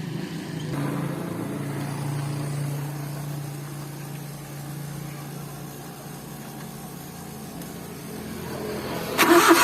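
A vehicle engine running steadily with a low hum that slowly fades, then a sudden, much louder burst of noise near the end.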